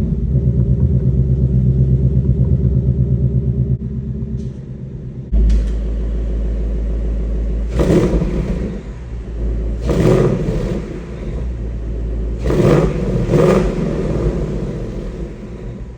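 2024 Ford Mustang GT's 5.0-litre V8 through its stock active exhaust, just started and running at a fast idle that drops about four seconds in. About five seconds in the idle turns louder and deeper, and the engine is then revved in four short throttle blips, the last two close together.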